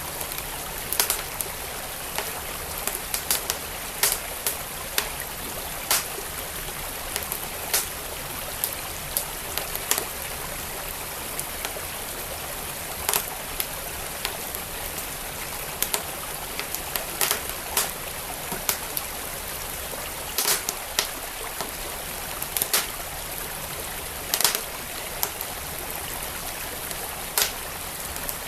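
Wood fire crackling with irregular sharp pops over the steady rush of a flowing stream.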